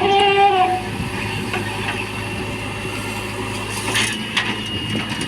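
Heavy diesel engine running steadily, from a backhoe loader or tipper truck at a mud-loading site. A short pitched tone sounds at the very start, and a few brief knocks come about four seconds in.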